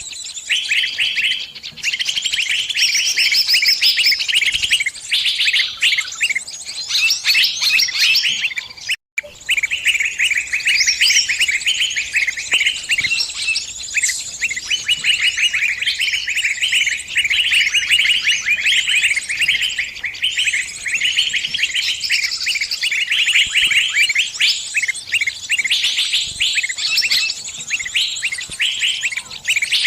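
Small bird's rapid, unbroken distress chirping: the call of a trapped bird calling its flock for help. It breaks off for an instant about nine seconds in.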